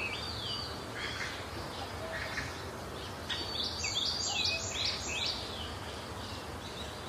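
Small birds chirping, with scattered short falling calls and a quick run of about five chirps in the middle, over a steady low outdoor rumble.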